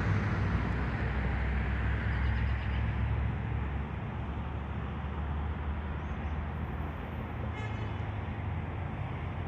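Steady outdoor road-traffic rumble with a low engine hum, easing a little about halfway through, and a brief high beep near the end.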